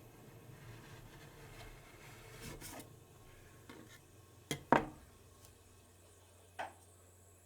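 Metal spatulas scraping and tapping on a frozen ice cream plate: light scraping, then two sharp clacks in quick succession about halfway through and one more a couple of seconds later.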